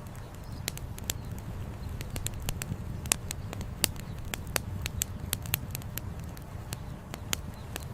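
Wood campfire crackling: sharp, irregular pops and snaps several times a second over a steady low rumble.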